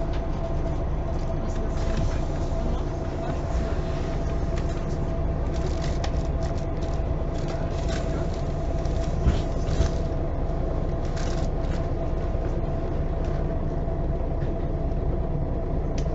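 Cabin sound of an MAN Lion's City G articulated city bus under way: steady engine and road noise with a constant thin whine, and short rattles from about five to eleven seconds in.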